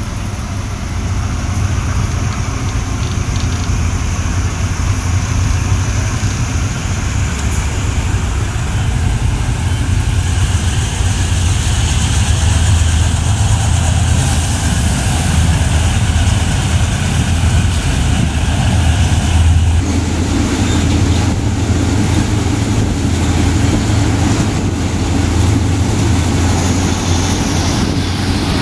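Passenger train running along the track, heard through an open carriage window: a steady, loud rumble of the wheels on the rails with rushing air. It swells over the first couple of seconds, and a deeper hum joins about twenty seconds in.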